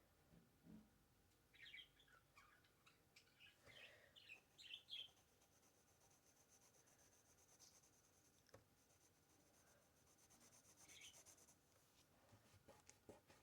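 Faint bird chirps, a cluster in the first few seconds and another near the end. Light scratching of a pencil drawing on paper runs through the middle.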